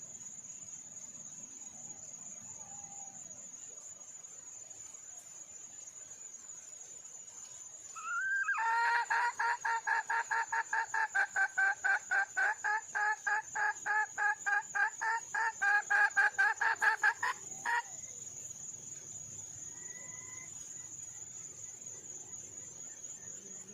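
Red junglefowl hen cackling: a rapid run of clucks, about three a second, lasting some nine seconds from about a third of the way in. A steady high whine runs underneath.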